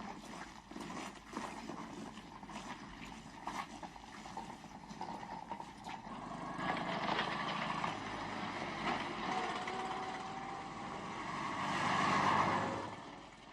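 A motor vehicle's engine running, growing louder over the second half as it draws near, then dropping away just before the end; a few light clicks and knocks come earlier.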